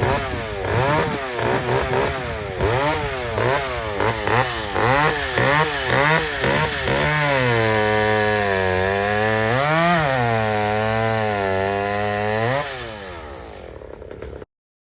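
Vintage two-stroke chainsaw revved again and again, the engine speed swinging up and down about twice a second. It is then held at high speed for several seconds with one brief dip and rise, and drops back sharply near the end.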